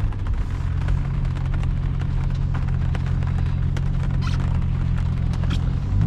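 C7 Corvette's V8 engine running at a steady cruise, a low, even drone, with scattered light ticks over it.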